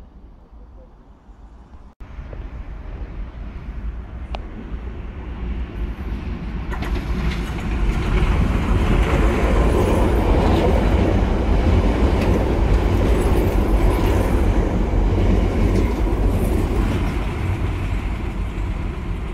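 London Underground Piccadilly line train approaching and running through the station platform at speed, its wheels rumbling and clattering over the rail joints. The sound builds over several seconds, stays loud through the middle, and eases slightly near the end.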